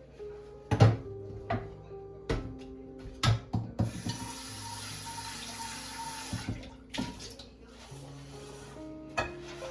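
Kitchen tap running for about three seconds in the middle, among a series of sharp clinks and knocks of things handled at the sink. Soft music plays underneath.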